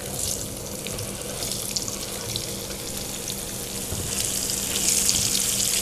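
Raw mango cubes sizzling in hot mustard oil in a frying pan, with a spatula clicking against the pan as they are stirred. The sizzle grows louder near the end.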